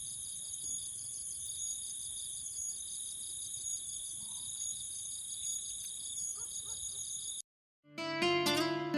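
Steady high-pitched chorus of night insects such as crickets, with a fast pulsing trill under a continuous ring. It cuts off suddenly about seven and a half seconds in, and plucked acoustic guitar music starts just before the end.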